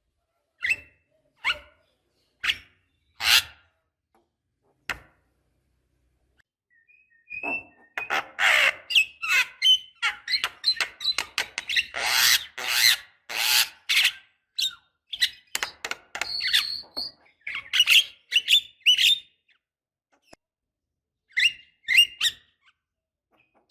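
Javan myna calling: a few single short calls about a second apart, then after a short pause a long run of rapid, loud chattering calls lasting about ten seconds, and a few more calls near the end.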